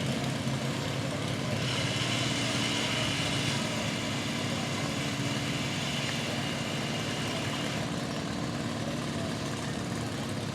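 Engine running steadily, with a steady high whine added from about a second and a half in until about eight seconds.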